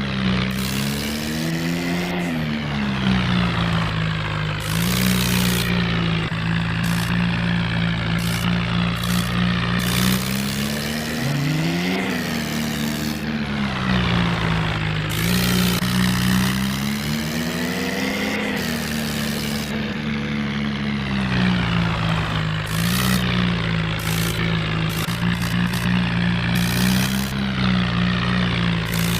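Remote-control toy tractors running: a steady low engine-like drone that rises in pitch several times as they speed up, over the whine of small electric gear motors and scattered clicks from the gears and wheels.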